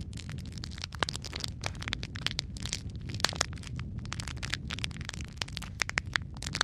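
Logs burning in a fireplace: dense, irregular crackling and popping, several sharp snaps a second, over a steady low rumble of the flames.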